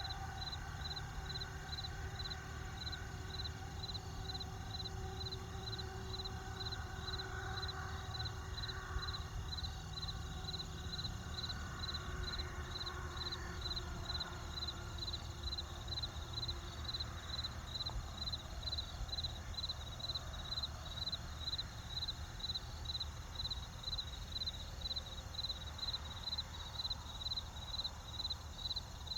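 Crickets chirping steadily in a high, even rhythm of about two chirps a second, over the low, steady sound of a campfire.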